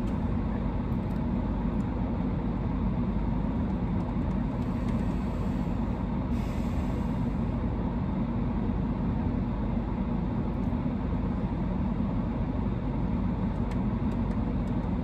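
Steady low hum of a car idling, heard from inside its cabin.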